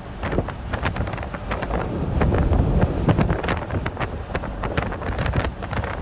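Strong squall-line wind gusting over the microphone, a heavy rumbling buffet that peaks a couple of seconds in, with many irregular sharp ticks scattered through it.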